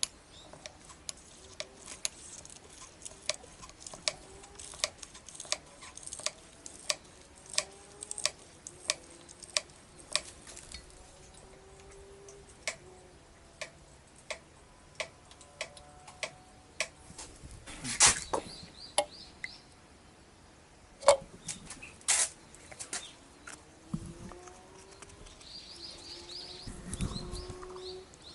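A run of light, evenly spaced clicks, one or two a second, then after a pause a few louder knocks. Faint bird chirps can be heard in the background in the second half.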